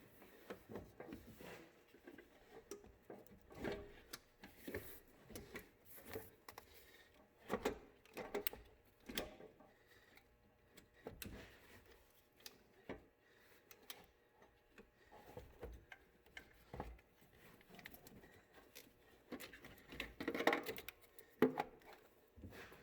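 Irregular light knocks, clicks and scrapes of a car alternator being worked down into a tight engine bay, metal bumping against metal, with a few louder clunks near the end.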